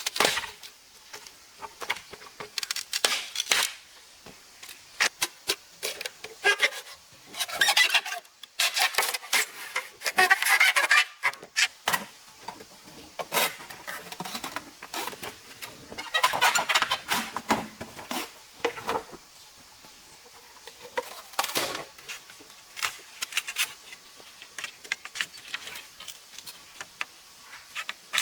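Irregular bouts of scraping and rubbing with short knocks in between, louder for a few seconds at a time.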